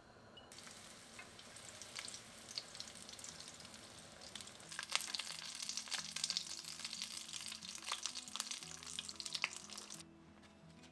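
Panko-breaded shrimp shallow-frying in oil in a frying pan: a steady sizzle with sharp crackles and pops, louder and busier in the second half, cutting off suddenly near the end.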